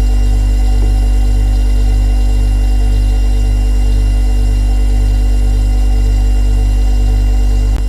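Refrigerator running with a loud, steady low hum and a slight regular throb, a few faint steady tones above it. A brief click comes near the end.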